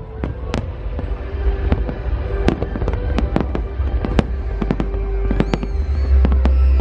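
Aerial fireworks shells bursting in rapid succession: many sharp bangs over a continuous low rumble that grows louder near the end.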